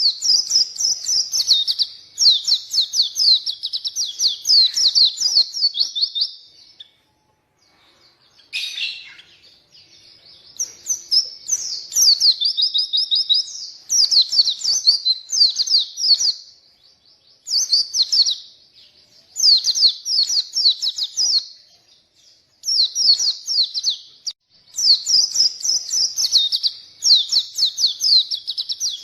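A pleci (white-eye) singing energetically in rapid, high twittering phrases of a few seconds each, with short pauses between them. This is the full, continuous song that keepers play to prompt quiet birds to sing and as a model for them to learn from.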